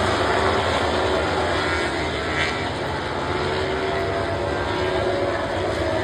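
Racing motorcycle engines running steadily around the circuit, a continuous drone with faint changes of pitch.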